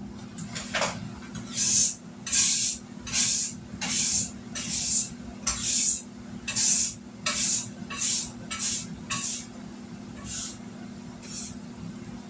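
Spoon stirring a pot of chicken and dumplings in regular swishing strokes, about one every two-thirds of a second, over a steady low hum.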